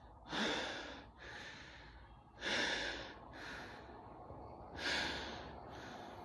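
A man breathing heavily: three loud, rough breaths about two seconds apart, each followed by a softer one.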